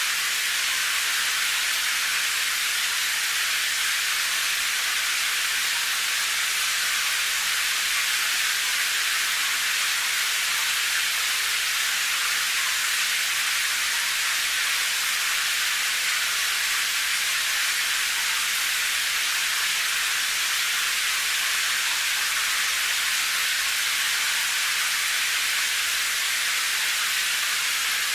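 Steady rain: an even, unbroken hiss that sits high, with almost no low rumble and no single drops standing out.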